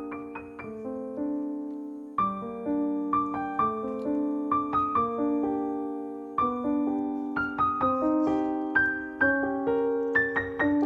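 Background music: a gentle piano melody with chords, the notes struck one after another at an even pace.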